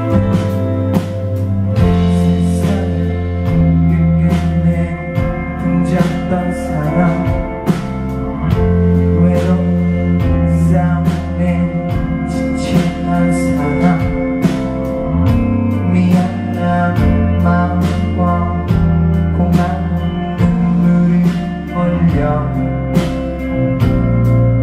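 A live band playing a pop-rock song: drums keep a steady beat under bass and sustained guitar chords.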